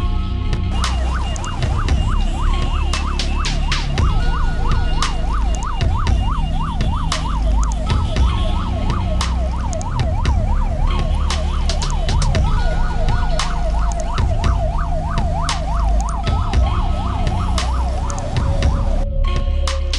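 Emergency vehicle siren wailing in a fast yelp, about three to four rises and falls a second. About two-thirds of the way in it switches to a steady held tone, which steps lower near the end. Throughout there is a low rumble and many sharp clicks.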